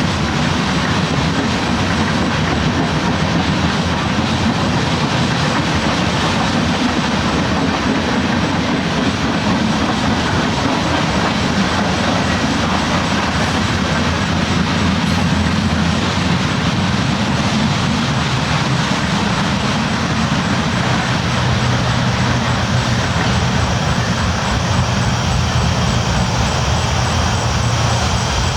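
Train rolling along the tracks, a steady, unbroken noise of wheels running on rail.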